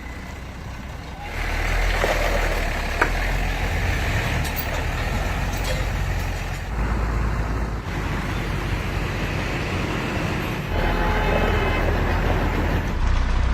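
Hino truck's diesel engine running steadily, with a sharp click about three seconds in.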